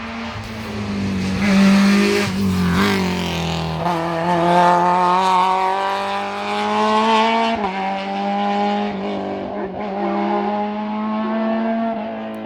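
Renault Clio II RS's four-cylinder engine at full throttle in a hillclimb run. The pitch climbs and drops sharply at each upshift, about four times.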